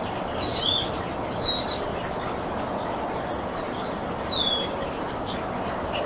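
Small songbirds calling over steady wind noise: three short, downward-sliding whistles and two sharp, high chips, the chips the loudest sounds.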